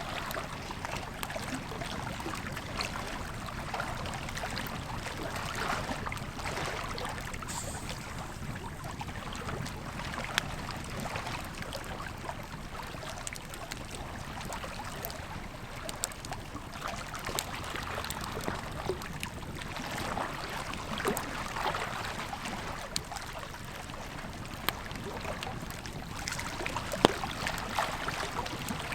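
A river flowing steadily with a campfire crackling, scattered sharp pops through it; one pop near the end stands out loudest.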